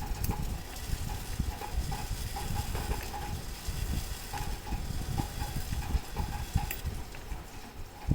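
Mauthe grandfather clock movement ticking, about two ticks a second, with low knocks and rustling from the movement being handled.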